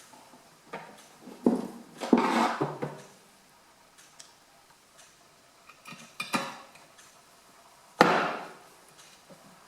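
Sharp metallic knocks and clinks, the loudest about eight seconds in, as the metal tabs that hold the glass in a wood heater's door are bent and worked with a tool.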